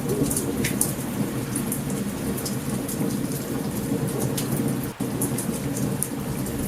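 Steady heavy rain with the low rumble of thunder, mixed with the frequent sharp crackles of a campfire. The sound drops out for an instant about five seconds in.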